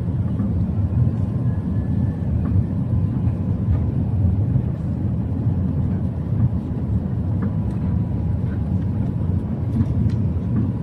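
Steady low rumble of engine and airflow noise inside the cabin of an Airbus A380 on final approach, with a faint, steady high whine running under it.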